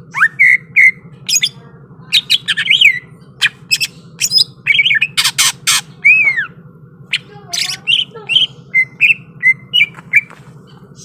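Cucak ijo (green leafbird) singing a fast, loud string of sharp clicking notes, short whistled slurs and harsh squawks, with barely a pause. A faint steady low hum runs underneath.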